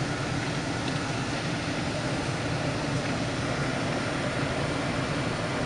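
Steady vehicle engine drone with road noise, heard from inside a moving car.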